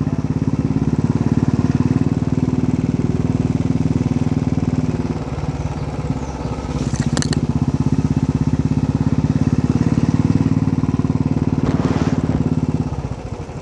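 Motorcycle engine running steadily under way at low speed, its exhaust pulses coming thick and even. It dips briefly in the middle and eases off near the end as the bike slows.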